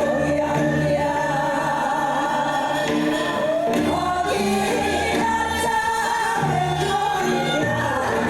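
Live music: voices singing a melody over band accompaniment with a repeating bass line.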